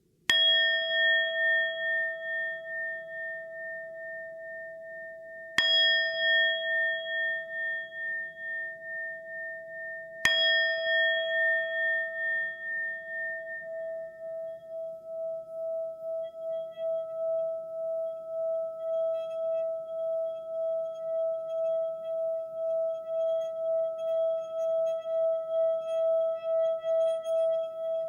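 A singing bowl struck three times, about five seconds apart, each strike ringing on with a clear tone. From about halfway through, the tone is drawn out in a steady wavering pulse that slowly grows louder.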